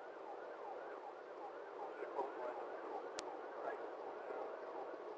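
Police siren in fast yelp mode, a rising sweep repeating about three times a second, fairly faint. A single sharp click comes about three seconds in.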